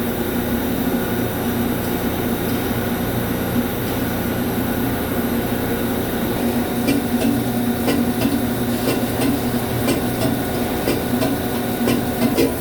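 Lathe turning a steel subway train wheel: a steady machine hum, with irregular sharp clicks, likely from cutting and breaking chips, joining in about seven seconds in.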